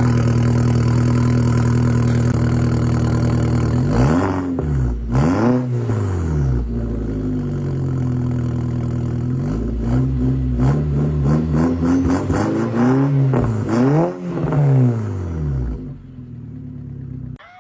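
Turbocharged Volkswagen Passat engine being revved: held at a steady high note for about four seconds, then blipped up and down several times, before dropping away near the end.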